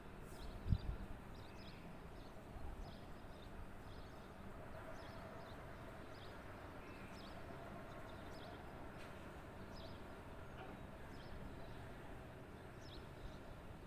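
Small birds chirping, short high chirps repeating throughout over steady outdoor ambience, with a single low thump about a second in.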